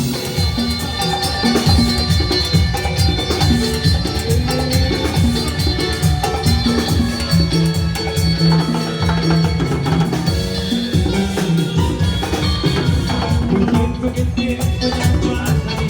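A band playing Latin dance music, with drums, percussion and bass keeping a steady beat.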